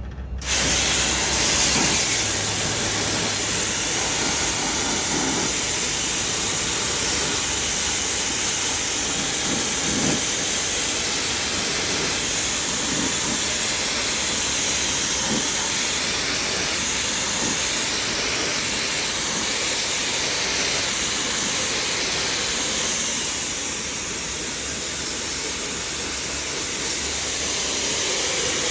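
Steady hiss of a water jet spraying an air-conditioner unit during cleaning, starting abruptly and easing slightly near the end.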